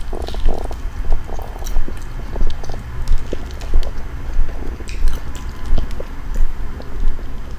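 Close-miked chewing of food in a steady rhythm, about one and a half chews a second, with small mouth clicks.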